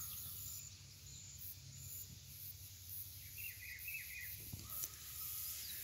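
Quiet background with a faint bird chirping a short run of quick notes about three seconds in.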